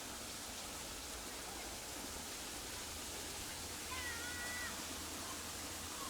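A single short mewing animal call about four seconds in, rising then briefly held, over a steady background hiss.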